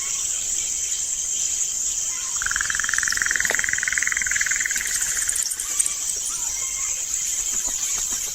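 Steady high-pitched insect chorus, crickets trilling continuously, with a lower rapid trill joining for about three seconds in the middle.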